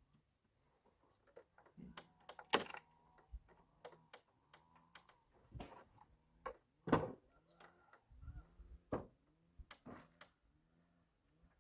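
Irregular knocks and clacks, a dozen or more at uneven spacing, the loudest about two and a half seconds and seven seconds in.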